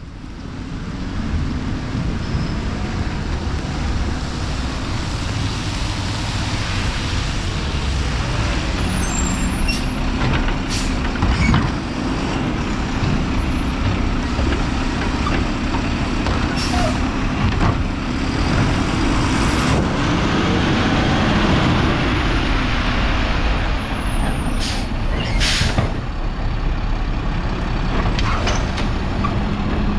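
Mack LR garbage truck with a Labrie body running steadily, its diesel engine's low rumble under a constant hiss, with a few brief sharp hisses of air along the way.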